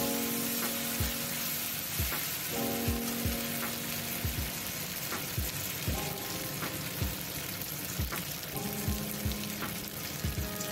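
Sliced onions sizzling in hot oil in a metal kadai, with a steel spatula scraping and knocking against the pan at irregular strokes, about one a second.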